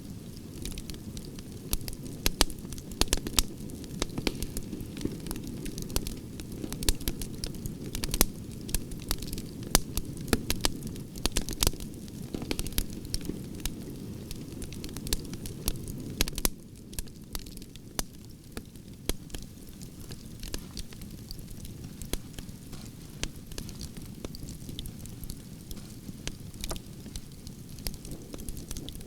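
Campfire of burning branches crackling, with frequent sharp pops and snaps over a low steady rush of flames. The rush eases a little past halfway through.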